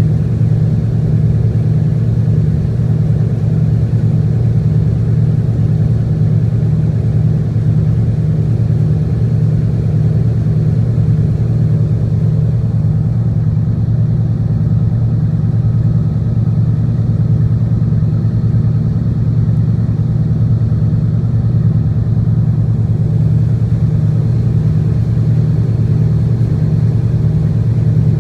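Tugboat engine running steadily at a constant speed, a loud, even low drone.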